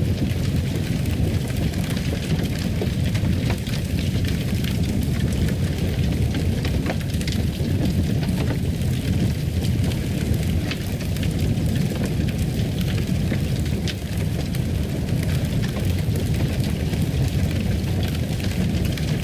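Wood fire burning in a fireplace: a steady low rush with small crackles and pops scattered throughout.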